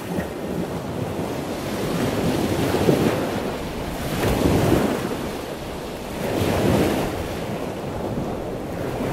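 Ocean waves washing in: a steady rushing noise that swells and eases about three times.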